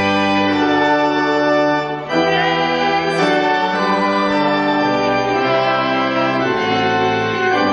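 Organ music: slow held chords that change every second or two, with a short break in the sound about two seconds in.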